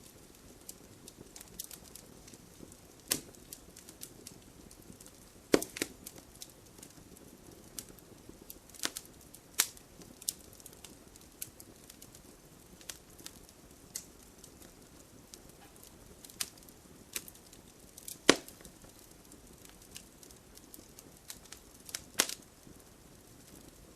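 Wood fire burning in a fireplace: irregular crackling with sharp pops, several louder snaps standing out over a low, steady hiss of flame.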